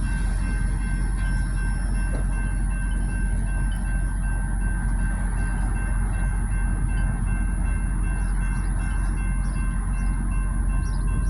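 Freight train of tank cars rolling slowly through a tight curve: a steady low rumble of wheels on rail with a thin, faint wheel squeal over it.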